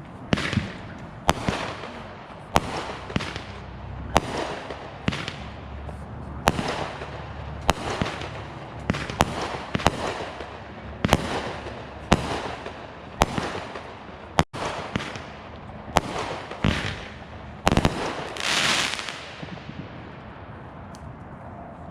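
Consumer fireworks firing in a steady sequence: about seventeen sharp bangs roughly a second apart, each followed by a short hiss. A longer hiss near the end dies away after the last shot.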